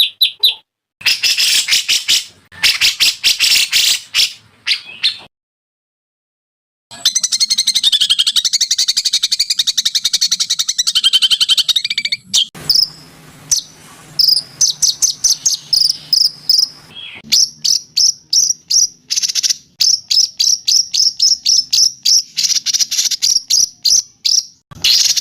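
Songbird recordings for masteran, in edited segments of rapid, high, insect-like trills and fast repeated chirps that break off abruptly, with a silent gap about five seconds in.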